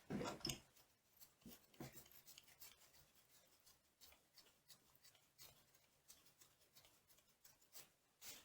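Faint clicks and light rubbing of small metal hardware being handled, close to silence, with a brief louder cluster of clicks at the very start.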